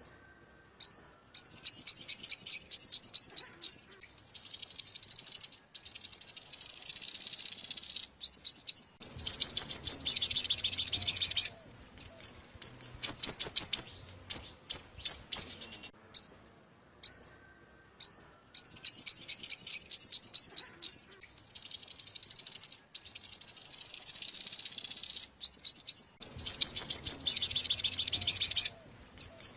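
Sunbird song, the bird Vietnamese keepers call the five-coloured sunbird: fast runs of high, sharp rising notes, many a second, broken by short pauses.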